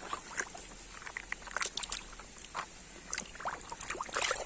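Small plastic toys being handled in water, with irregular light clicks, taps and faint sloshing.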